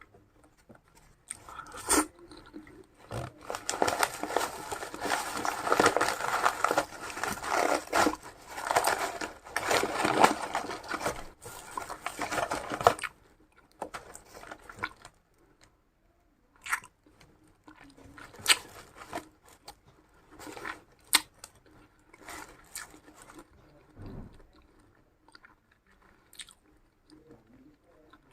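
A person biting and chewing crunchy food close to the microphone. The crunching is dense and loud for about ten seconds, then thins to scattered, softer chewing clicks.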